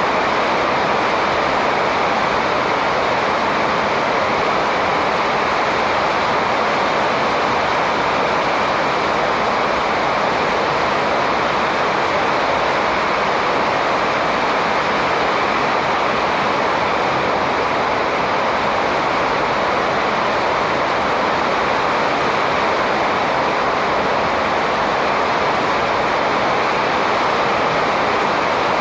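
Steady rushing noise, even and unbroken, with no distinct bird calls standing out.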